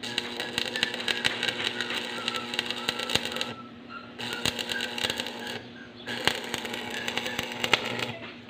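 Electric arc welding: the arc crackles in three runs, with short breaks about three and a half and six seconds in, over a steady low hum.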